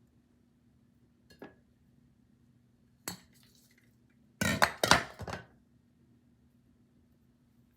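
Small hard objects being handled and set down on a hard surface: a couple of light clicks, then a short burst of clinking and clattering about four and a half seconds in.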